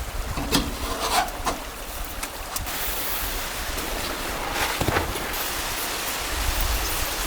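Steady rushing of a mountain stream, with several sharp knocks and rubbing sounds of something being handled close by.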